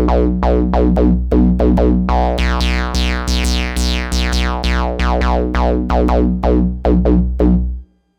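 A 303-style synth bass line from Native Instruments' Monarch synth, which the producer calls a classic TB bass sound, deliberately not too clean. It plays a fast repeating riff of about four notes a second, each note starting bright and quickly darkening, over a steady low end, and it stops abruptly near the end.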